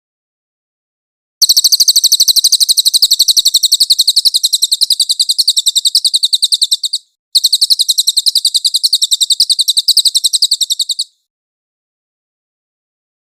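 Cililin bird singing a rapid, high-pitched trill of evenly spaced notes, in two long bouts of about five and four seconds with a short break between them.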